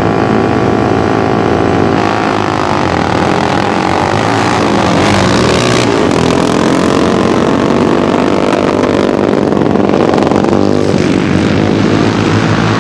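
Several off-road racing engines running hard at once on the track, their pitches rising and falling as they rev and pass.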